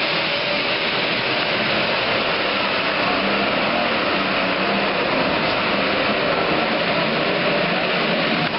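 Pro stock pulling tractor's turbocharged diesel engine running hard under load during a pull, a loud, steady, unbroken noise.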